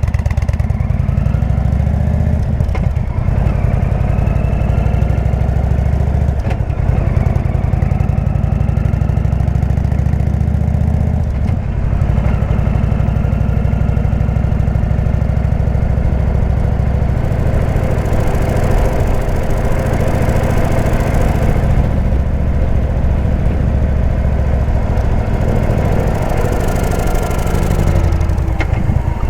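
Indian V-twin motorcycle with a Jekill & Hyde exhaust running under way, its engine pitch rising and falling through the ride.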